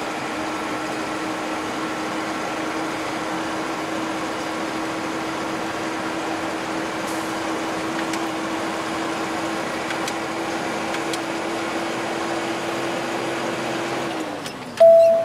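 Steady engine and road noise heard from inside a moving car's cabin, with a steady engine hum that drops in pitch near the end as the car eases off. A short, loud beep sounds right at the end.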